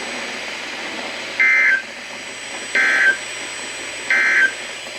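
Three short bursts of Emergency Alert System SAME data tones, a buzzy warble repeated about a second and a half apart over a faint radio hiss. It is the end-of-message signal that closes an alert broadcast.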